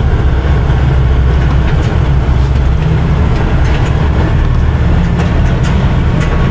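Loaded truck's diesel engine running low and steady, heard from inside the cab, with light clicks and rattles as it rolls slowly over rail tracks.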